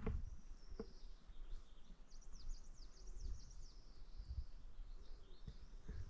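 Birds chirping: a run of short, quick, falling high chirps, thickest about two to three and a half seconds in, over a low, uneven outdoor rumble, with a couple of sharp clicks near the start.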